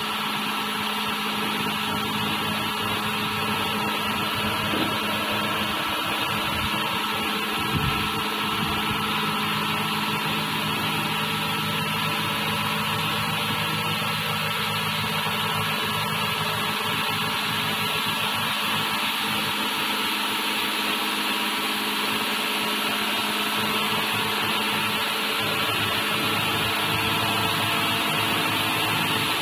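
Automatic car wash machine running on a test: a steady motor hum with a hissing haze above it, and a brief low knock about eight seconds in.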